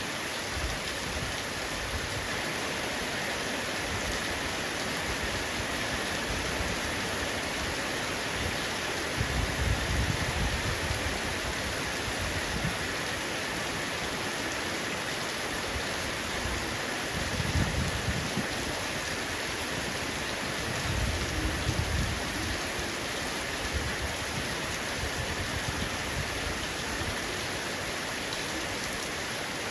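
Heavy rain falling steadily on a roof, an even hiss of drops. Low rumbles swell up three times, about a third of the way in, past the middle and a little later.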